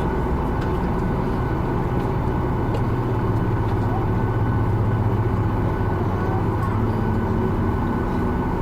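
Steady cabin drone of a Boeing 737-800 on the ground, its engines idling, with a thin steady whine over a low hum. The low hum swells for a few seconds midway and then eases. Faint passenger chatter sits underneath.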